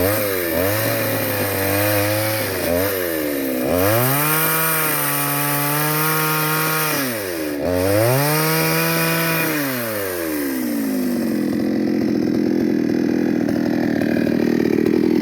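Chainsaw engine revving in repeated throttle bursts, its pitch climbing and falling back, twice held at full throttle for about two seconds. About eleven seconds in, the pitched whine gives way to a steady, rougher noise.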